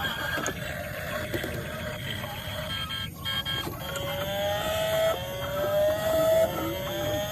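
A toy vehicle's motor or sound unit whining. From about four seconds in, it repeats a rising whine roughly once a second, each climb dropping back and starting again.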